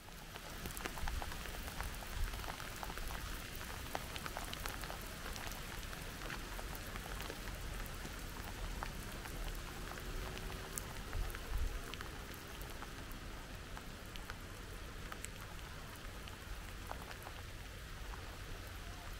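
Steady rain falling, with many individual drops ticking close by over a continuous hiss and a low rumble underneath.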